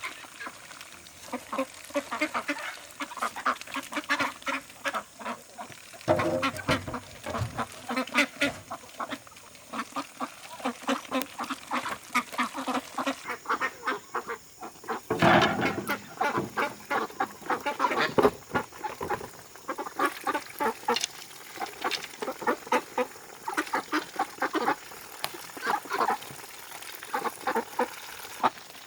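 Domestic ducks quacking repeatedly, many short calls overlapping throughout, with a louder noisy burst about halfway through.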